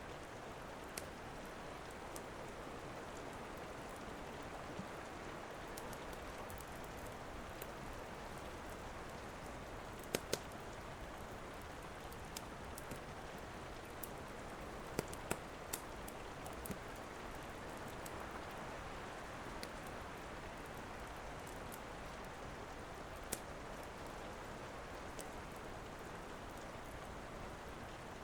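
Steady rain with a wood fire crackling over it: scattered sharp pops, the loudest two close together about ten seconds in and a quick cluster around fifteen seconds in.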